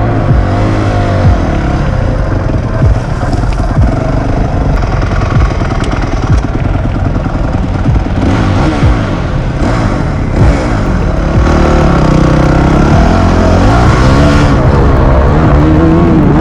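Honda CRF250X dirt bike's single-cylinder four-stroke engine revving up and down under load on a hill climb, with its pitch rising and falling over and over. It runs louder for the last few seconds.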